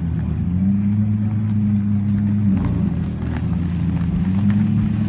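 2016 Lamborghini Huracán's V10 engine held at raised revs: it steps up about half a second in and holds steady for about two seconds, falls back to a lower note, then steps up and holds again near the end.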